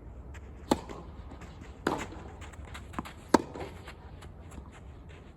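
Tennis ball being struck during a rally: three sharp hits about a second and a quarter apart, the third the loudest, with a fainter knock just before it and faint ticks between.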